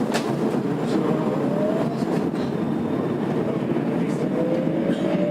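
Tokyo Metro 02 series subway car in motion, heard from inside: a steady rumble of wheels on rail, with a couple of sharp rail-joint clicks near the start. Over it, the IGBT VVVF inverter and traction motors give a whine that rises slowly in pitch as the train gathers speed.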